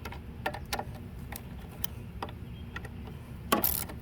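Scattered light clicks and taps of hand tools being handled, with a louder scrape about three and a half seconds in, over a steady low hum.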